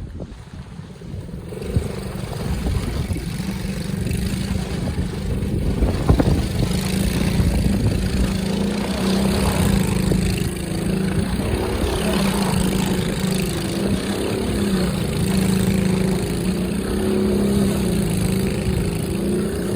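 Motorbike engine running at held revs while the bike is ridden in doughnuts. Its pitch wavers a little up and down, and it gets louder about two seconds in.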